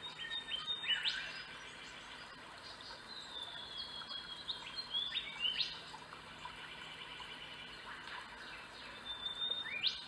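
Birds calling in bushland: clear whistled notes with sharp rising sweeps about a second in, around five seconds in and again near the end, and a held high whistle in between.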